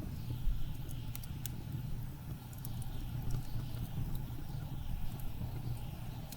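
Blizzard wind blowing with a steady low rumble and passing gusts, over a wood fire crackling with scattered sharp pops, one louder pop about half a second in.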